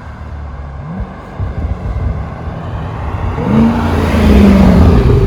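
2020 Chevrolet Corvette C8 Z51's 6.2-litre LT2 V8 exhaust, the engine revving: a short blip about a second in, then a louder rev that climbs about three and a half seconds in and holds high near the end.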